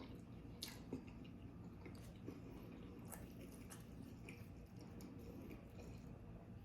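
Faint, soft chewing and wet mouth sounds of a person eating pizza roll casserole, with scattered small clicks.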